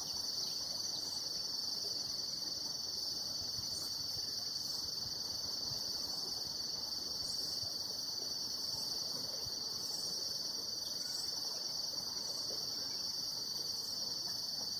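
Insects calling in a continuous, high-pitched chorus: a steady trill that never breaks.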